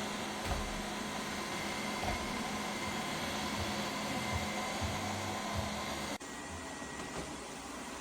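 Lefant M330 Pro robot vacuum running, a steady fan-like whir with a low hum and a few soft low bumps. About six seconds in the hum cuts off abruptly and a slightly quieter whir carries on.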